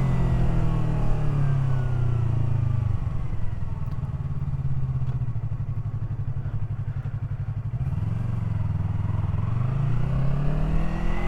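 Yamaha R3 parallel-twin motorcycle engine slowing down over the first few seconds. It then idles with a steady low pulse and revs up again about eight seconds in as the bike pulls away.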